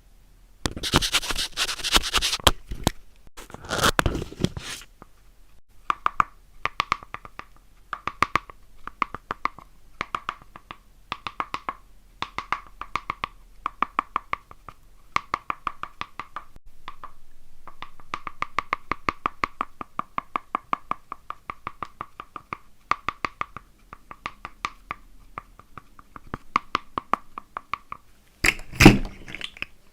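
Paper crinkling and tearing, followed by a long run of quick sharp clicks with a mid-pitched tone pulsing under them, and a single loud thump near the end.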